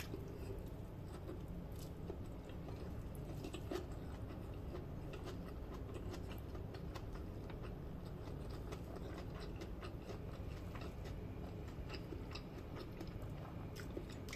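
A person chewing a mouthful of fried rice, heard as faint, scattered small mouth clicks and soft smacks over a low steady background hum.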